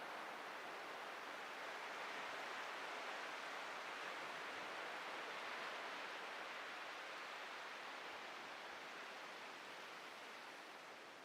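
Ocean surf: breaking waves washing onto the beach, a steady hiss that swells slowly and eases off near the end.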